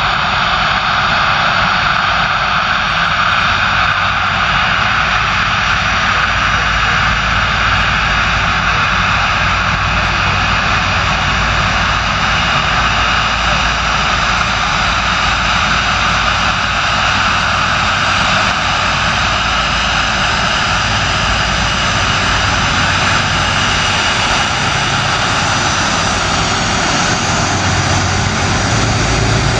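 Jet airliner engines running steadily: a loud, even roar with a faint high whine.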